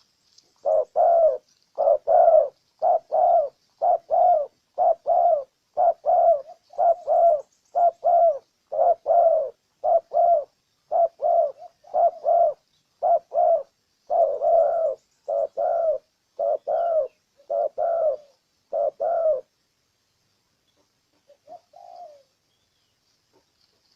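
Spotted dove cooing: a long run of low coos, about two a second, that stops short about three-quarters of the way through, followed by a couple of fainter coos.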